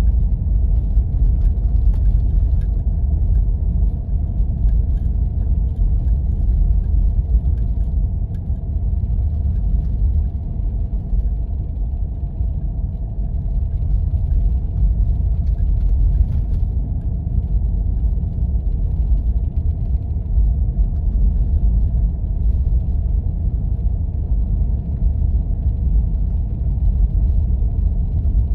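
Steady low rumble of a Jeep driving on snowy back roads, with engine and road noise running evenly throughout.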